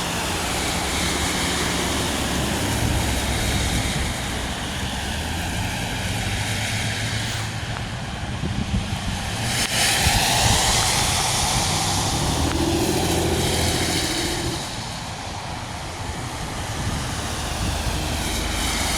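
Road traffic: vehicles passing with tyre hiss on a rain-wet road over a steady low engine hum, the loudest pass about ten seconds in.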